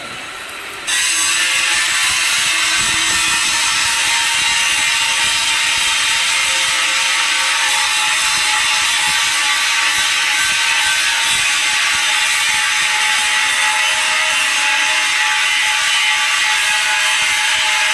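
Welding arc struck on a steel pipe joint about a second in, then crackling and sizzling steadily as the weld is run.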